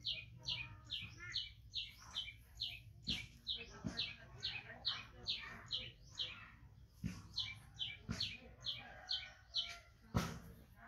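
A bird calling one short, high chirp over and over, about three a second, with a few knocks, the loudest near the end.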